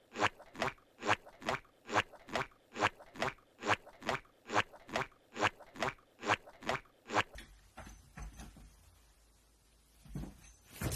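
Close-up chewing of something crunchy, like dry kibble: rhythmic crunches about two a second that stop some seven seconds in.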